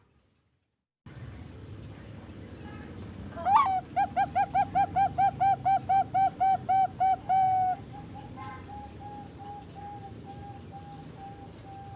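Young Bangkok-type zebra dove (perkutut) singing: a rising opening note, then a fast run of about fifteen loud, evenly spaced cooing notes lasting some four seconds, followed by a softer, slower series of repeated coos.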